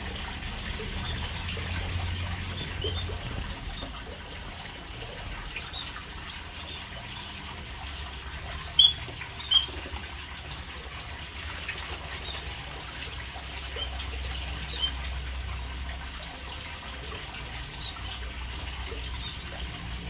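Short, high chirps from small aviary birds, scattered through, with two louder ones about nine seconds in, over a steady hiss of running water.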